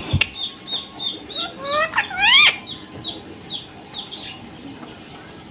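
Indian ringneck parrot chirping: a run of short, high, falling chirps several times a second, with two louder rising calls about two seconds in. A brief thump right at the start.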